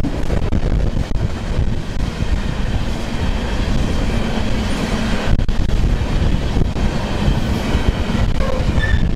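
BNSF freight train of coal cars rolling past close by: a loud, steady rumble of steel wheels on the rails. A mid-train diesel locomotive goes by partway through.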